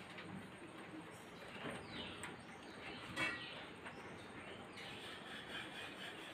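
Birds chirping: a few short calls that fall in pitch, the loudest about three seconds in, over a steady background hiss.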